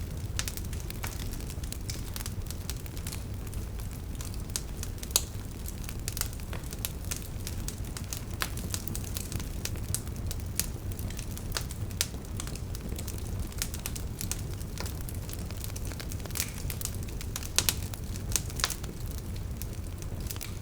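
Wood fire burning: burning logs crackle with irregular sharp pops over a steady low rumble of the flames. A few louder snaps stand out, one about a quarter of the way in and a cluster near the end.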